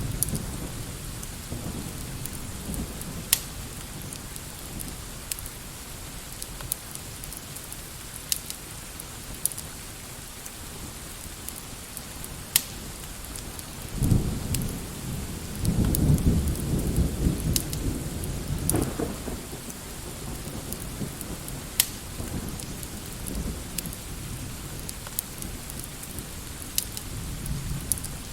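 Steady rain ambience with low rolls of thunder about halfway through, the longer one lasting a few seconds. Sharp pops and crackles are scattered throughout.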